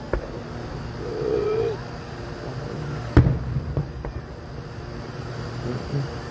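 Distant aerial fireworks shells bursting, a loud bang about three seconds in followed by a few fainter pops. A short wavering hum is heard about a second in.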